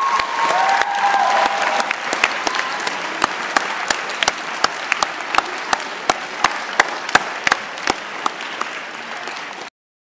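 Audience applauding, the dense clapping thinning after a few seconds into scattered separate claps, then cutting off suddenly near the end.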